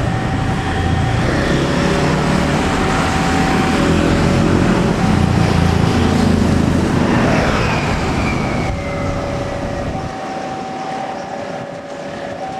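Gajayana express train of stainless-steel carriages passing with a heavy rumble that eases near the end. A two-tone level-crossing alarm alternates high and low about once a second throughout.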